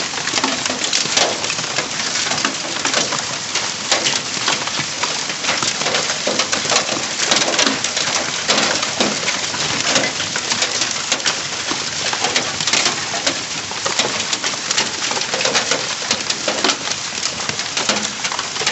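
Hail falling hard: a dense, steady clatter of countless hailstones hitting surfaces, with many sharp individual impacts standing out of the din.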